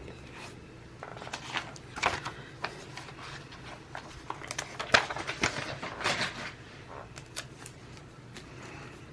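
Washi tape and paper being handled on a planner page: irregular small crackles, taps and rustles, busiest in the middle and easing off near the end.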